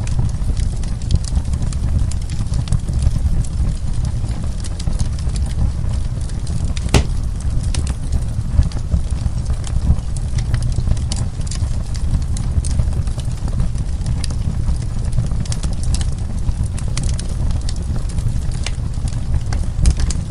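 Wood fire burning in a fireplace: a steady low rumble with frequent small crackles and pops of burning wood, and one louder pop about seven seconds in.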